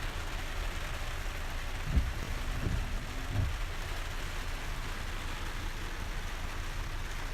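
Steady rain hiss over a low, constant rumble, with three short low thumps between about two and three and a half seconds in.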